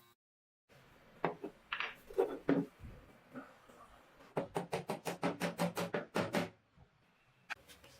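A series of knocks: a few irregular strikes, then a quick run of about a dozen evenly spaced blows, about six a second, and one last click near the end.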